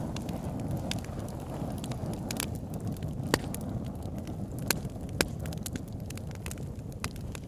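Wood fire burning in a fireplace: a steady low rush of flames with scattered sharp crackles and pops, the loudest about three, five and five and a quarter seconds in.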